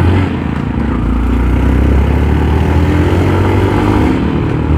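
Yamaha YTX125's 125cc four-stroke engine running steadily and loudly: a low drone under a steady rushing noise.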